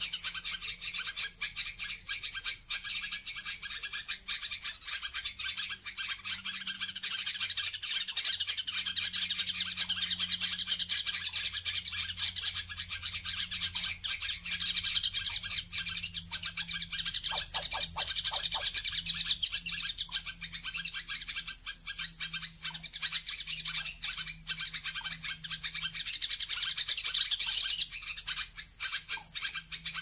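Wild birds chirping and trilling in a continuous, busy high chorus, with a faint low hum underneath.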